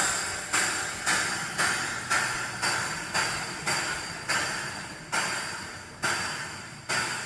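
Bell sound from a G-scale locomotive sound unit, ringing in a regular series of strikes that each decay. The strikes come about twice a second at first and slow to nearly one a second.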